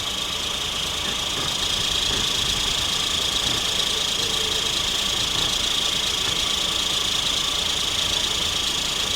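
Steady engine noise with a constant high hiss, getting slightly louder a little over a second in.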